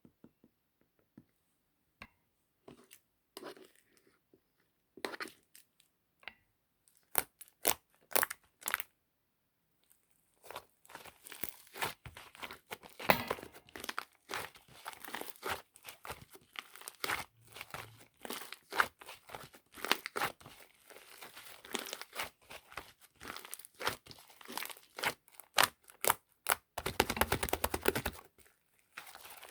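Clay slime worked by hand: sparse sticky clicks and pops at first, then dense crackling and popping from about ten seconds in, with a quick run of crackles near the end.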